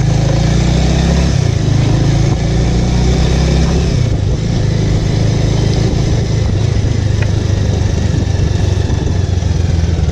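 Bajaj Avenger's single-cylinder four-stroke engine running under way, a steady low engine note that eases off slightly about four seconds in.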